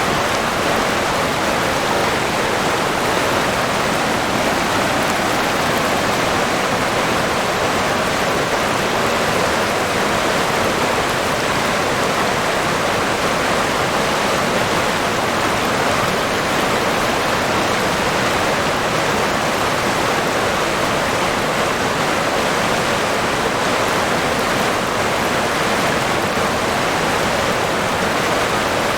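River water running and rushing steadily over rocks in an even, constant wash.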